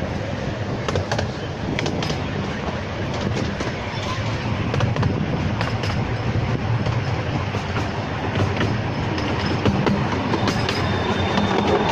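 12-inch gauge miniature railway train running along its track, heard from an open-sided carriage: a steady low rumble of the wheels with irregular sharp clicks as they pass over the rails.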